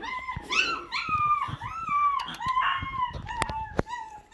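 Six-week-old Havanese puppy giving a run of short, high, howling yelps, about two to three a second, with a few sharp clicks near the end.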